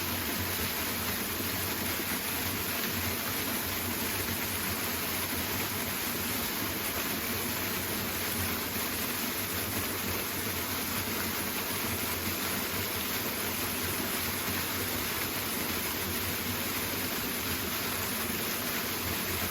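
Waterfall: rushing water making a steady, even noise.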